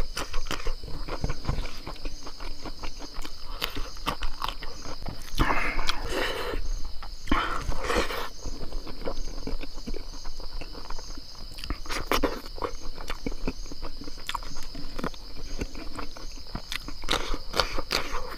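Close-up eating sounds: chewing and biting on buffalo innards, with many small wet clicks and two louder, longer noisy bursts around six and eight seconds in. A steady high insect drone sits behind it.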